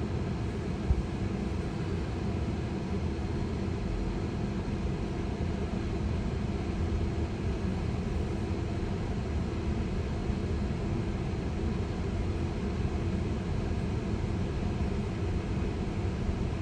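Steady low rumble of road and tyre noise inside a Tesla's cabin as the electric car rolls slowly along, with a faint steady hum and one short knock about a second in.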